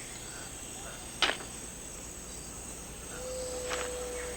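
Tropical rain forest ambience: a steady high insect drone, with a short, loud, downward-sweeping call about a second in and a steady whistled note near the end.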